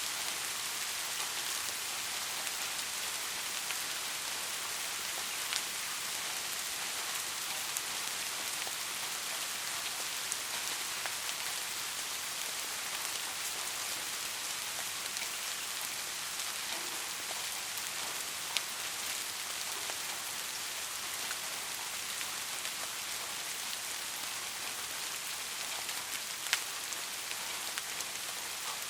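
Steady rain falling in a dense, even hiss, with now and then a single louder drop standing out.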